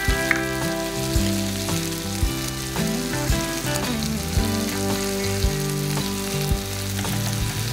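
Onion, tomato and vegetable pieces sautéing in a clay pot with a steady sizzle, and occasional sharp clicks of a spoon as turmeric powder is added.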